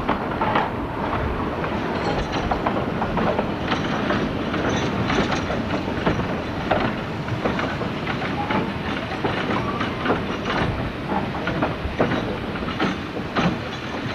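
Narrow-gauge steam train running, heard from an open carriage window: a steady rumble of wheels on rail with irregular clicks as they pass over rail joints.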